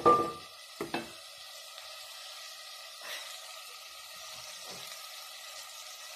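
Tomatoes, carrots and greens frying in an aluminium pot, a steady sizzle. A wooden spoon stirring them knocks against the pot with a short ring at the start and again about a second in.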